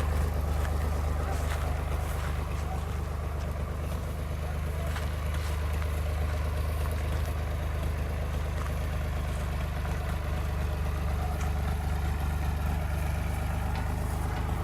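An engine idling steadily, with a deep, even hum that does not change pitch.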